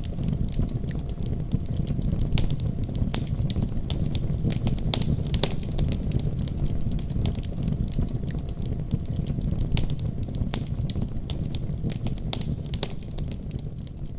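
Fire burning in a fireplace: a steady low rumble of flame with frequent sharp, irregular crackles and pops.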